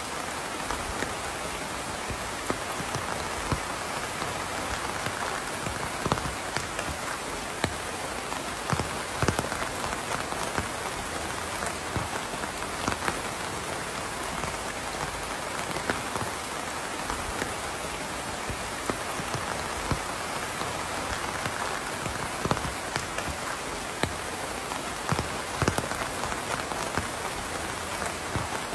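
Steady rain falling, an even hiss with frequent irregular louder drops pattering on a surface.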